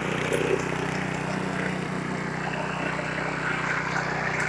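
Small single-cylinder engine of a 3 HP self-propelled Craftsman reel mower running at a steady speed while the mower cuts grass.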